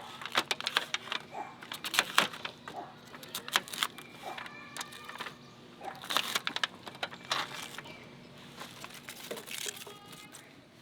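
Irregular sharp clicks and knocks with some crinkling, from food, packaging and utensils being handled during cooking prep. A short call-like sound comes about four to five seconds in and again near the end.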